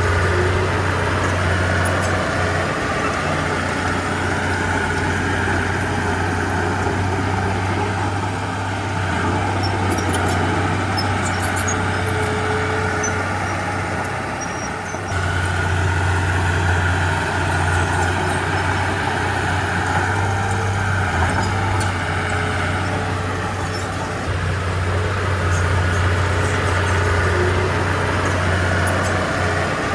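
Heavy diesel engine of earthmoving machinery running under working load, its low drone steady but easing and building again every few seconds, with a dip about halfway through.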